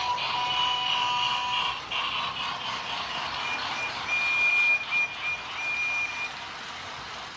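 Toy train's electronic whistle sounding: a long held toot, then a run of short toots, over a light running hiss.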